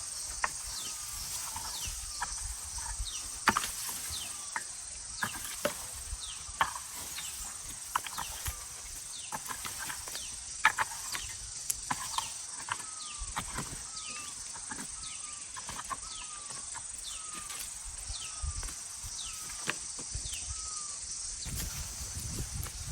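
Outdoor farm ambience: a steady high insect drone, with birds chirping throughout. In the second half one bird repeats a short call once or twice a second. Scattered sharp knocks and scrapes come from work on the ground.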